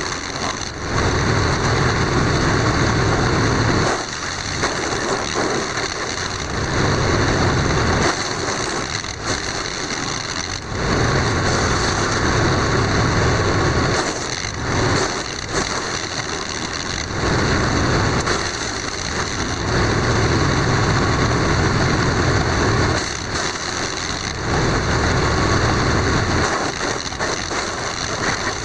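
Engine-driven wood chipper running, with a steady high whine. Louder stretches of a few seconds each come about six times as material is fed through and chipped, and it drops back to a lighter running sound in between.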